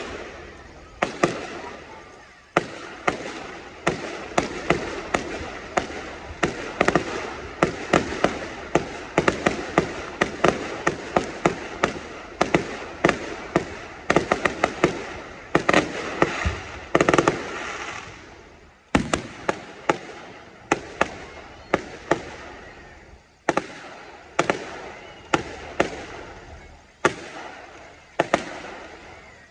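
Fireworks display: a rapid, dense volley of sharp bangs with crackling. About two-thirds of the way through it thins to single bangs roughly a second apart.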